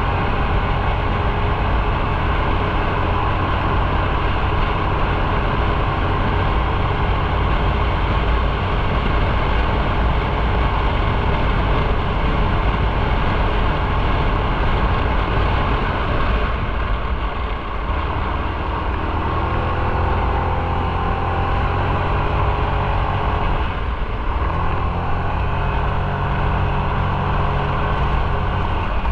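Motorcycle running on the road, with a steady engine note over continuous noise. The engine note drops and shifts about seventeen seconds in and again about twenty-four seconds in, then settles.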